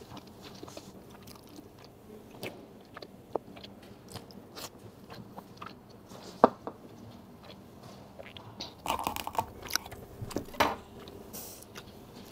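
Close-up mouth sounds of a person chewing a mouthful of cooked king crab meat: wet chewing with many small clicks, one sharp click about six seconds in, and a run of louder crackles around nine to eleven seconds in.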